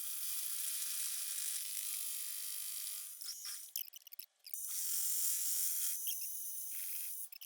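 Small milling machine taking a light 15-thousandths cut in metal with an indexable-insert cutter: a steady high whining buzz that breaks off for a moment a little past the middle, then resumes.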